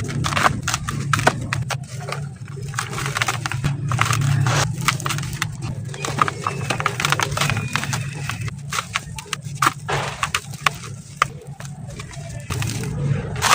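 Dry sand-cement lumps being crumbled by hand, a dense run of irregular crunches and sharp crackles, over a steady low hum.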